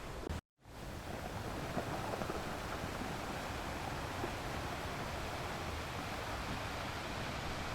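Ocean surf: a steady wash of waves. About half a second in, the sound cuts out to silence for a moment, then fades back up.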